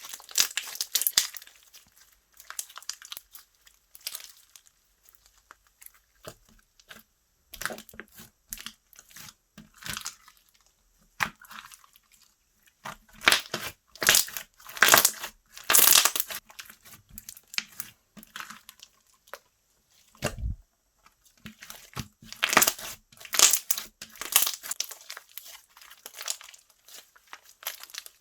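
Slime being squeezed, stretched and folded by hand: irregular sticky crackles and pops, louder in clusters, with one dull bump about two-thirds of the way through.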